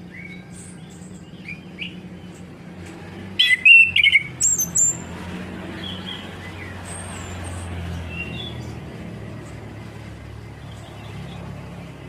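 Chestnut-capped thrush (anis kembang) singing: a loud burst of quick, varied whistles and chirps about three to five seconds in, with softer scattered chirps before and after, over a steady low hum.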